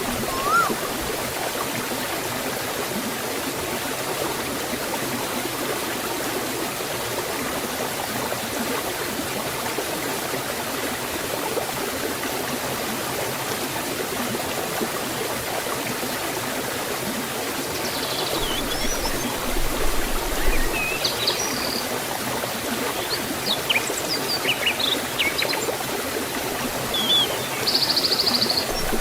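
Forest waterfall water rushing steadily. From about two-thirds of the way in, small birds chirp above it, with a short buzzing trill near the end.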